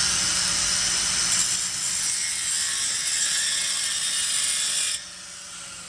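Handheld electric power tool cutting into a steel exhaust pipe: a steady, high-pitched grinding noise that stops suddenly about five seconds in.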